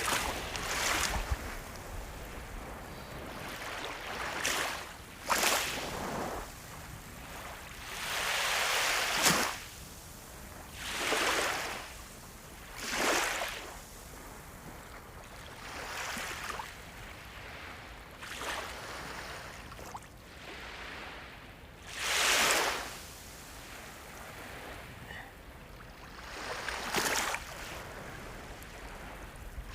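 Sea waves surging and washing in, about ten swells of rushing noise that rise and fade at uneven intervals, the strongest about nine and twenty-two seconds in.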